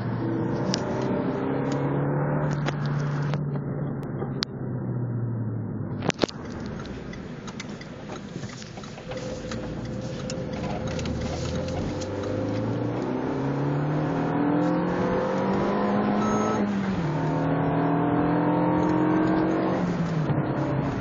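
Renault Mégane RS's 2.0-litre turbocharged four-cylinder engine heard from inside the cabin as the car is driven. Its note climbs, holds and drops back several times, as at gear changes, with a sharp click about six seconds in.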